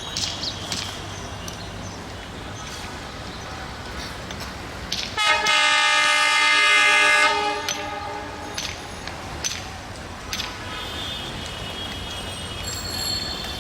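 Diesel locomotive air horn, an ALCO WDM-3A's, sounds one loud chord of several tones for about two and a half seconds, starting about five seconds in. A steady rumble with scattered clicks and clinks runs under it.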